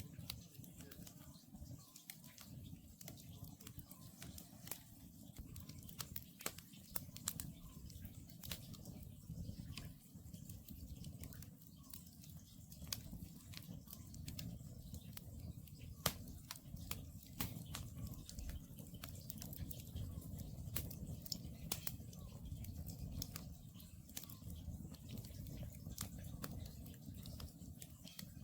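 Wood campfire crackling, with many small sharp pops scattered throughout and a steady low rumble from the burning logs. One louder pop comes a little past the middle.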